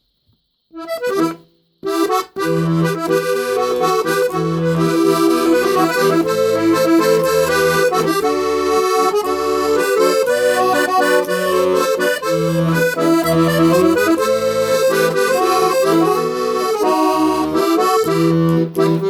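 Accordion playing a song introduction: a melody over sustained reed chords with a pulsing bass, starting with a short chord about a second in and then playing on continuously.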